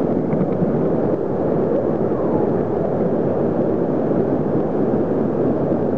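Waterfall roaring: a loud, steady rush of falling water close by.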